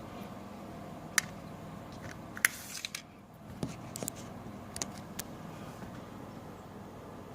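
A few sharp clicks and small knocks, with the loudest about two and a half seconds in, over a faint steady hum.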